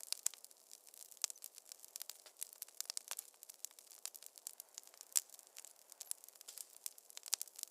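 Wood fire crackling in a fireplace: many irregular sharp pops and snaps over a faint hiss, with one louder pop about five seconds in.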